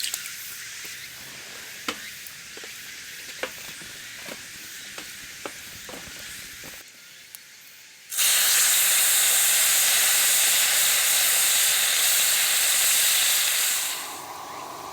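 Fat and meat sizzling loudly in a hot cast-iron Dutch oven, a dense hiss that starts abruptly about eight seconds in and drops away about six seconds later. Before it, a quieter crackly hiss with scattered sharp pops and clicks.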